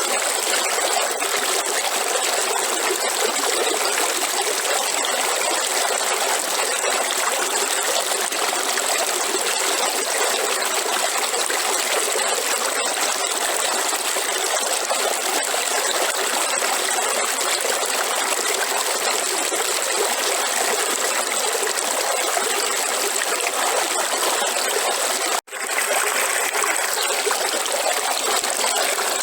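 River water flowing steadily over rocks: continuous rushing and trickling. About 25 seconds in, the sound drops out for an instant, as at an edit, then carries on unchanged.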